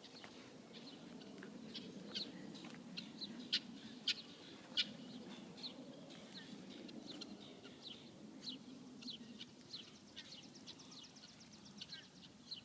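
Songbirds singing: a scattered series of short, sharp chirps, with a fast trill of rapidly repeated notes about seven seconds in, faint over a low background hum.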